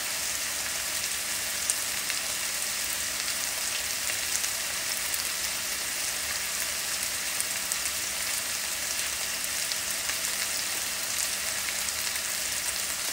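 Seasoned chicken pieces sizzling steadily as they fry in a pan, with scattered small crackles. The chicken is still cooking through and has not yet reached temperature.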